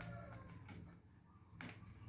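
The tail of a rooster's crow fading out, then a few faint clicks over a steady low hum.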